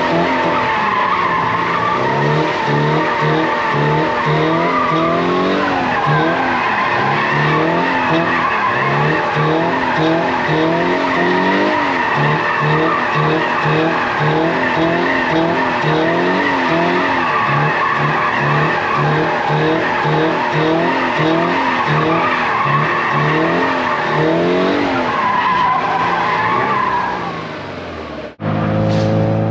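Toyota GR86's flat-four engine revving up and down under throttle while the tyres squeal through continuous drift slides. The sound cuts off abruptly about a second before the end.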